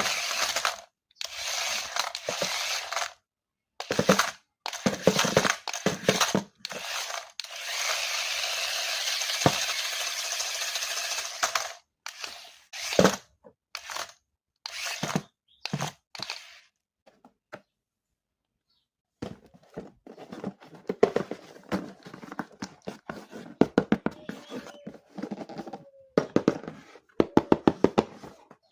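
Handling of toy packaging and plastic parts: stretches of steady rustling, then a quick run of small clicks and knocks in the second half.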